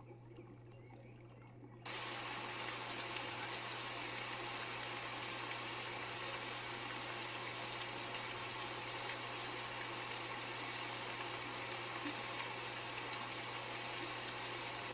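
Steady rushing of heavy rain, cutting in suddenly about two seconds in and holding even throughout.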